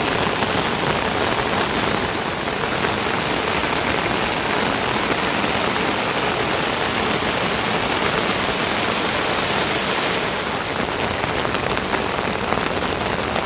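Steady rain falling, an even, unbroken noise with no pauses or changes.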